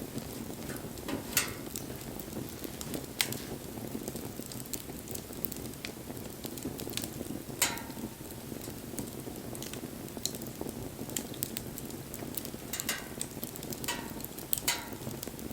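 Wood bonfire burning: a steady low rush of flame under frequent small crackles, with several sharper pops, the loudest about halfway through.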